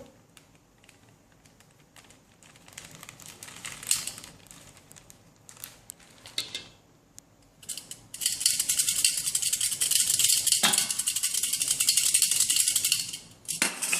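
Flour being shaken through a sieve into the cake batter bowl: a dense, loud, rattling hiss lasting about five seconds, starting about eight seconds in. Before it there are a few soft clinks and scrapes of the utensils.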